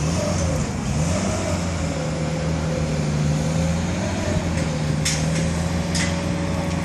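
Steady, loud machine drone with a low hum and a slightly wavering higher tone, from engine-driven equipment or an engine running outdoors. Two short hissy clicks come near the end.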